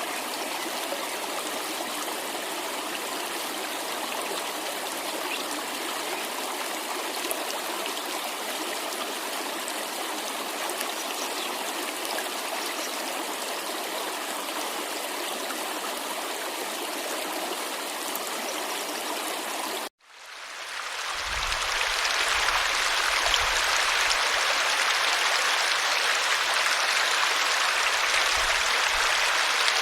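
Steady rush of a cascading stream or waterfall. About two-thirds of the way through, the sound cuts out for a moment and comes back louder and fuller, with irregular low rumbles underneath.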